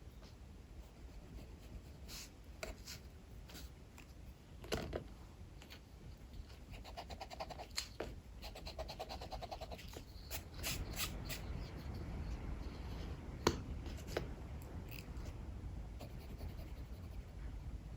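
Drawing strokes scratching on paper, in short runs with a few sharper taps, over the low rumble of strong wind that swells about halfway through.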